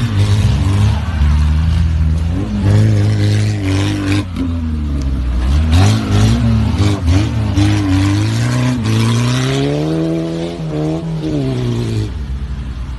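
An off-road 4x4's engine revving hard in repeated rises and falls in pitch, with one longer climb a little past the middle. A few sharp knocks come around the middle.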